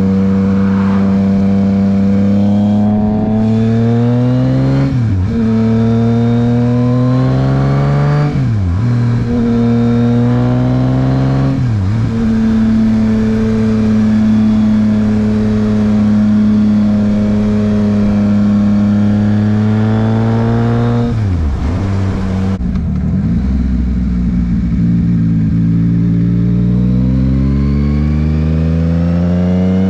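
2023 Yamaha MT-09's inline three-cylinder engine through a Dominator HP3 aftermarket exhaust, loud, accelerating with the pitch climbing and dropping sharply at four upshifts. It holds a steady speed for several seconds, eases off later on, then accelerates again near the end.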